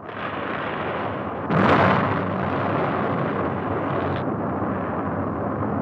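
Rocket exploding: a steady rumbling roar with a louder blast about a second and a half in.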